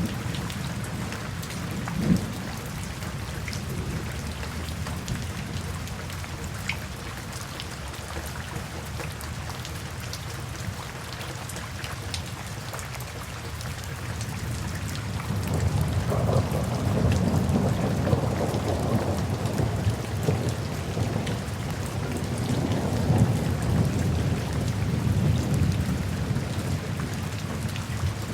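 Steady rain falling, with one brief sharp knock about two seconds in. From about halfway a long low rumble of thunder builds and rolls on to near the end.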